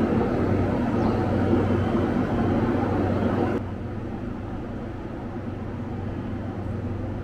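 Steady hum and rumble of a station platform where electric trains stand idling. It drops in level about three and a half seconds in.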